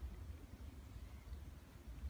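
Faint, uneven low rumble of wind buffeting the microphone, with no distinct event.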